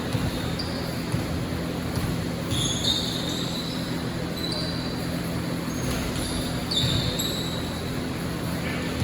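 Basketball game on a court: players' sneakers squeaking on the floor several times in short, high squeals, over the steady noise of the gym, with a few ball bounces.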